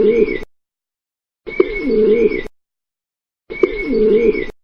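Pigeon cooing, the same short coo recording played over and over: bursts about a second long, one every two seconds, with dead silence between.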